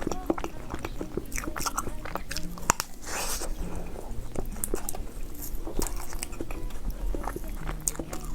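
Close-miked eating sounds: a person biting and chewing soft chocolate cake, with many small wet mouth clicks and smacks, and a brief breathy hiss about three seconds in.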